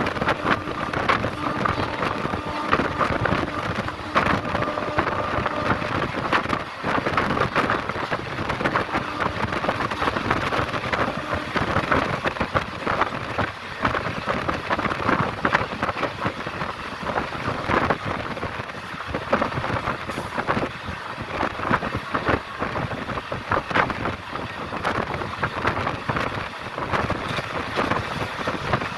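Fast train running on the rails: a continuous rumble of wheels on track, dense with rattles and clicks.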